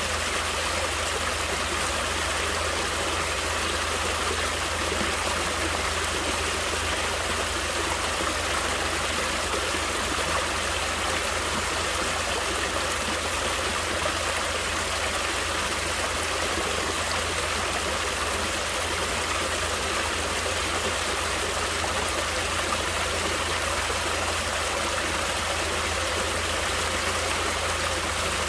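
Natural water flowing in a stream, a steady, unchanging rush of moving water with no separate splashes or breaks.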